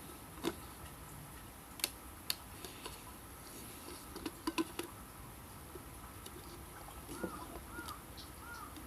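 Scattered light clicks and taps, a few at a time. Near the end come several short, high squeaky chirps.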